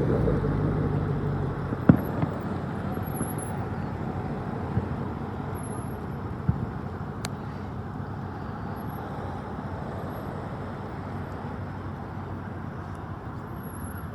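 Distant aerial fireworks going off: one sharp bang about two seconds in, then a few fainter, scattered pops. A steady outdoor rumble of traffic runs underneath.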